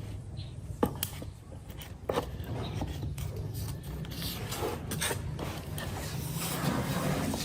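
Wood being worked by hand: scraping and rubbing, with a few sharp knocks early and a steadier scratchy stretch from a couple of seconds in, over a steady low hum.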